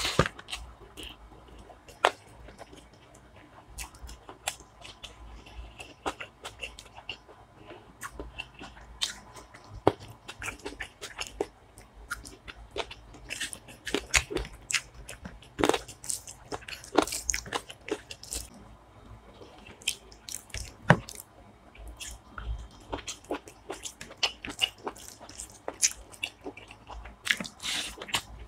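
A man chewing and crunching mouthfuls of rice and spicy chicken curry, with irregular sharp wet smacks and crunches close to the microphone.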